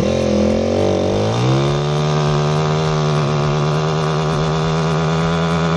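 Motorcycle engine pulling away: its pitch climbs over the first second or so, then holds steady at high revs.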